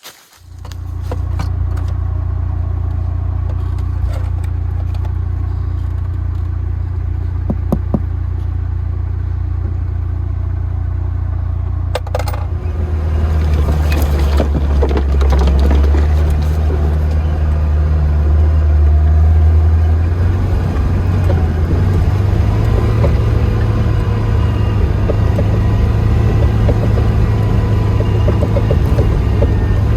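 Lada Niva engine running as the car drives: a steady low drone that comes in suddenly at the start. It changes pitch and grows louder about 13 seconds in, and shifts again around 20 seconds.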